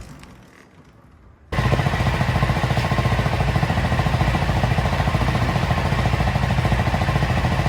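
Husqvarna Vitpilen 401's single-cylinder engine running, coming in suddenly about a second and a half in and then holding steady with an even pulsing beat.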